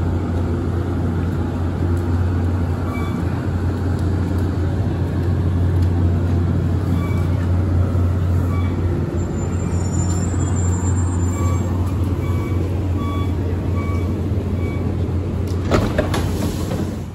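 Steady low hum of an idling Metro-North diesel train, heard from right beside a coach. Faint short beeps repeat through the middle, and there are a few clicks near the end.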